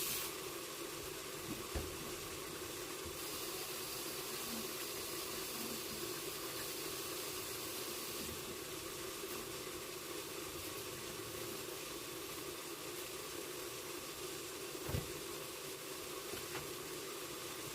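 Covered pan of squash and pork stir-fry steaming on the stove: a steady hiss over a constant low hum, with a couple of faint knocks.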